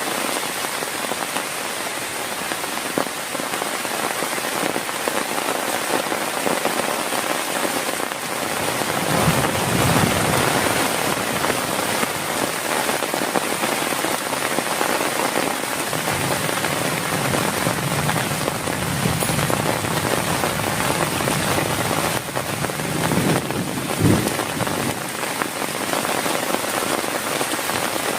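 Heavy rain falling steadily, with low rumbles of thunder rolling in about nine seconds in and again from about sixteen seconds. A short sharp thump comes near the end.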